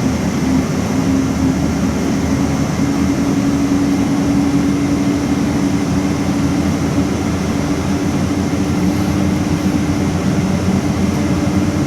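Steady noise inside the cabin of a Boeing 777-200ER airliner, a continuous rush with a steady low hum that steps up slightly about a second in.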